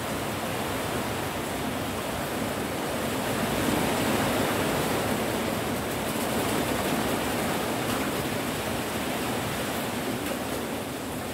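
Steady rain: a dense, even hiss of falling rain, swelling a little louder from about three seconds in and easing back near the end.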